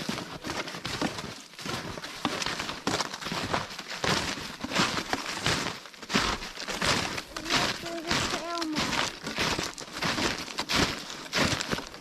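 Snowshoe footsteps crunching in fresh snow at a steady walking pace, about one and a half steps a second. A brief pitched squeak or hum comes about two-thirds of the way through.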